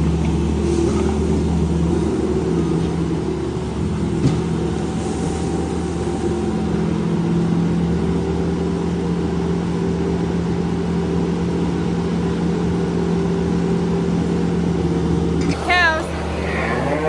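An engine running steadily at one even speed. Near the end a short wavering call cuts in over it.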